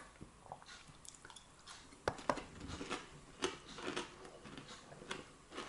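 A person chewing food, with irregular short clicks and soft smacks.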